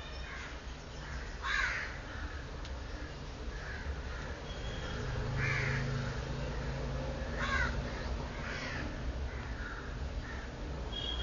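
Newborn Pomeranian-cross puppies giving short, high squeals and cries, about five of them spaced a second or more apart.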